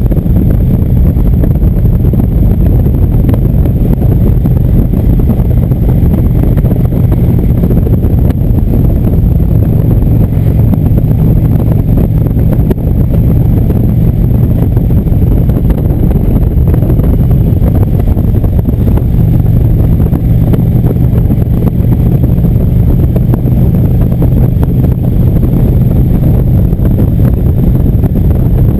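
Indian motorcycle's V-twin engine running steadily under way, with wind noise on the microphone.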